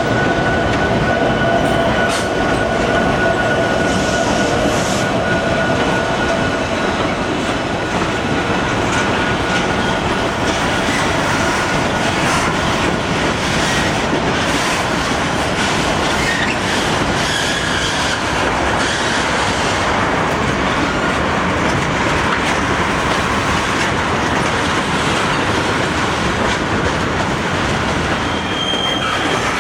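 CSX freight train cars rolling past at close range, a steady loud clatter of steel wheels on the rails. A thin wheel squeal rings over it in the first several seconds, then fades.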